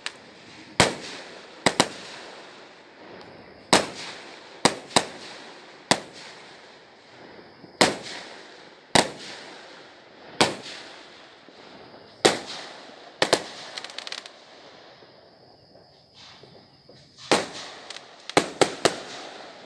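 Fireworks going off in sharp bangs at irregular spacing, some seventeen in all, singly or in quick pairs, with a tight cluster of bangs near the end. Each bang fades away over a second or so.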